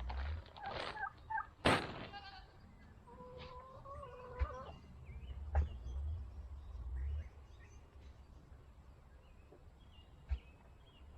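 A drawn-out animal call, fowl-like, lasting about a second and a half, among a few sharp knocks, with low wind rumble on the microphone.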